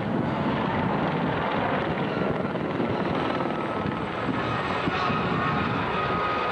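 Helicopter in flight: a steady rotor and engine noise, with a faint whine coming in after a couple of seconds.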